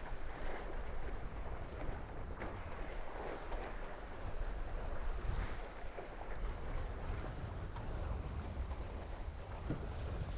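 Water rushing past the hulls of a Tornado catamaran under sail, with wind rumbling on the microphone.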